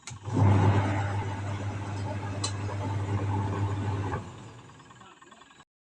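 SAB washing machine's electric motor running with a steady hum after a click, its new run capacitor fitted and the motor turning normally; the hum stops about four seconds in.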